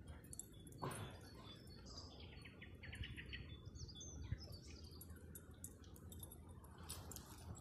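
Songbirds chirping and whistling faintly, with a quick trill about three seconds in, over a low steady rumble; a soft knock about a second in.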